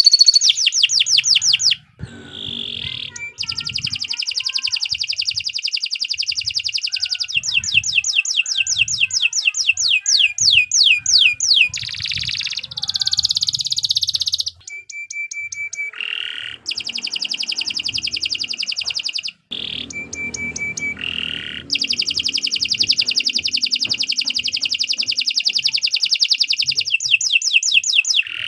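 Domestic canary singing long, loud song phrases of fast repeated-note trills and rolls, with brief pauses between phrases.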